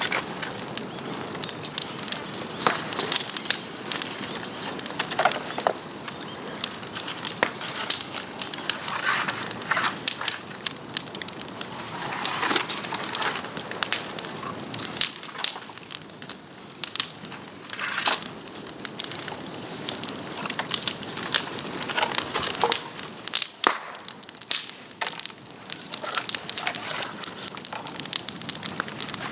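Bamboo burning in an open bonfire, crackling with frequent sharp pops. A thin, steady high whistle sounds over the crackle for roughly the first ten seconds.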